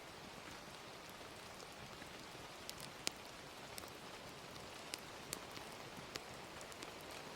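Steady gentle rain, with a handful of sharp crackles from a wood fire scattered through it; the loudest crackle comes about three seconds in.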